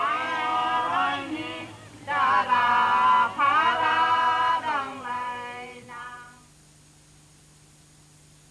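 Voices singing without accompaniment in two long phrases, then a weaker phrase that fades out about six seconds in.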